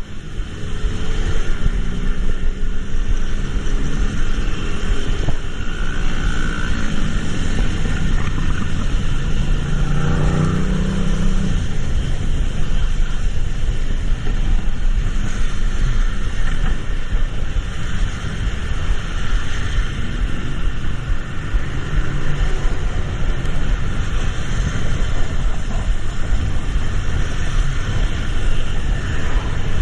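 Steady traffic noise with a low rumble. A vehicle engine's pitch rises and falls between about six and twelve seconds in.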